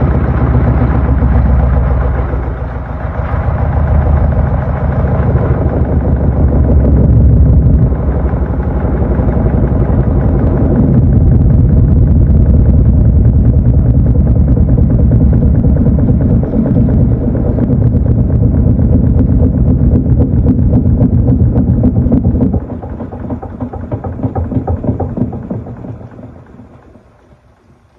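Panasonic NA-FA80H8 top-loading washing machine running loudly with a steady mechanical churn. It drops off suddenly near the end and dies away to quiet as the machine stops.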